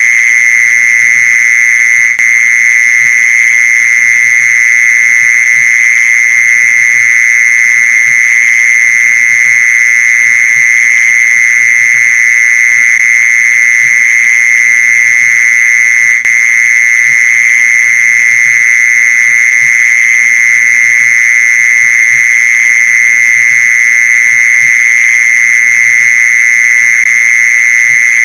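Mole cricket calling: a loud, unbroken, steady high-pitched trill, dipping briefly twice.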